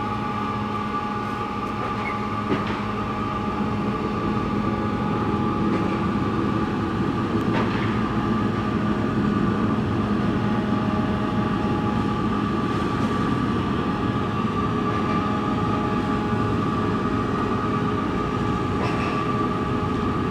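Steady mechanical drone of a large car ferry's diesel engines running as it pulls away from port, with a constant hum, heard muffled through the terminal's window glass.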